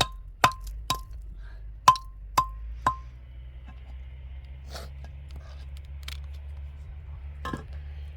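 Sharp metal-on-metal strikes, each ringing briefly: six in the first three seconds, then a few fainter knocks.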